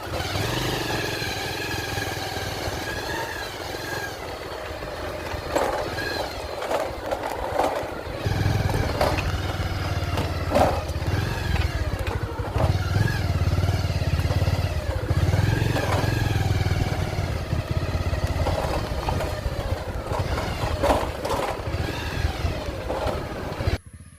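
A vehicle engine running, its pitch rising and falling, with scattered clicks; it cuts off abruptly near the end.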